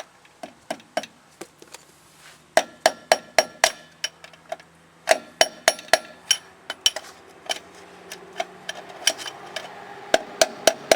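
Hammer tapping on the steel spindle nut of a 1984 Chevy truck's front hub, driving it fully home. The taps ring and come in quick runs of four or five a second, with single strikes between.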